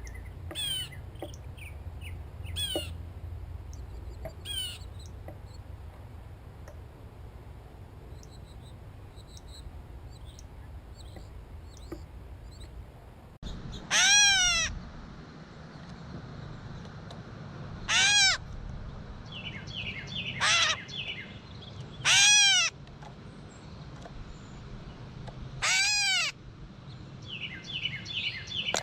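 Gray catbird giving its cat-like mew call, five loud calls in the second half, each rising then falling in pitch. Short faint chirps come in the first few seconds, and quick runs of stepped, falling notes come between some of the mews.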